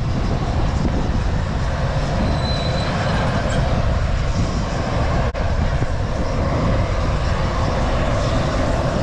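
Steady rumble of a Bombardier DHC8-Q400 turboprop heard from inside the cabin, with the engines running.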